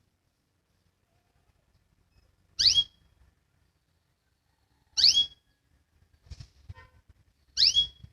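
Domestic canary giving a short, sweeping call three times, about every two and a half seconds, each ending on a brief held note; a few faint clicks come between the second and third calls.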